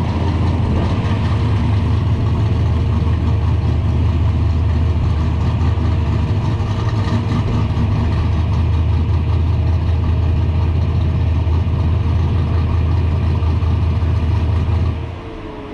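Car engine idling loud and close, with a steady whine over its low rumble. Near the end the engine is switched off and the whine falls away in pitch as it winds down.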